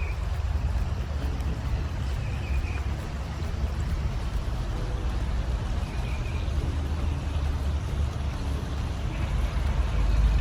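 Wind rumbling steadily on the microphone outdoors, with a few short high-pitched chirps spread through it.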